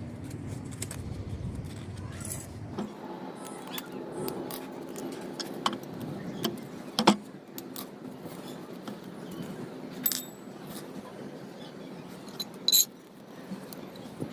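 Scattered clinks and knocks of small metal parts and tools being handled, the loudest knock about seven seconds in. A low hum stops about three seconds in.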